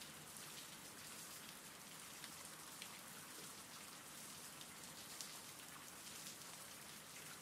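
Faint, steady rain: a soft even hiss with a few light ticks of single drops.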